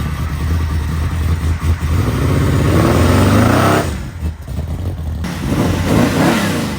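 A car engine accelerating: its pitch climbs, drops away abruptly, then climbs again, like revving up through a gear change.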